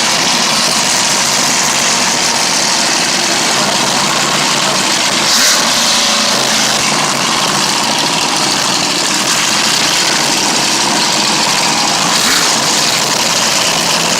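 Mega truck engine running steadily, with a brief louder burst about five seconds in.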